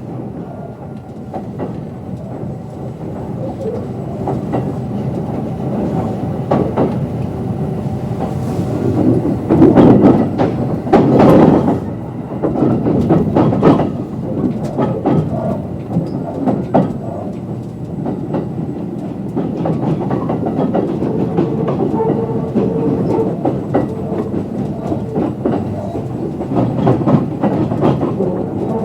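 Kintetsu 22600 series electric train running, heard from inside the car: steady running noise with wheels clattering over rail joints. The clatter is loudest about ten to twelve seconds in.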